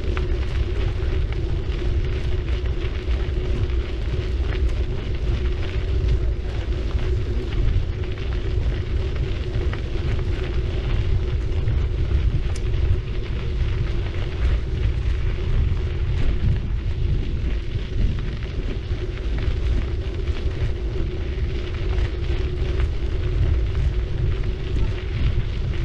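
Bicycle tyres rolling steadily along the path, a continuous gritty road noise over a heavy low rumble of riding wind on the action camera's microphone.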